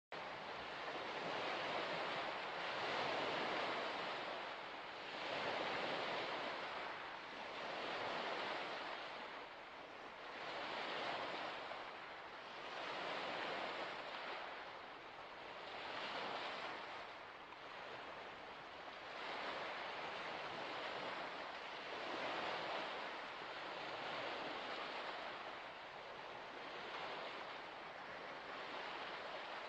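Waves washing onto a shore: a steady rush of water that swells and fades every two to three seconds.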